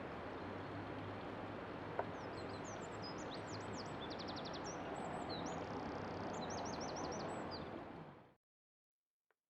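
Small birds chirping and trilling over a steady outdoor background hiss with a faint low hum. There is a single click about two seconds in, and everything fades out to silence near the end.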